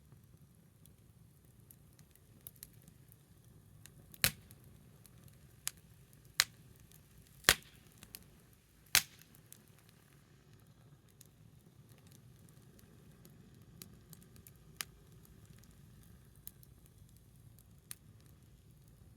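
Small wood fire crackling: scattered faint ticks and four sharp, loud pops between about four and nine seconds in, over a low steady rumble.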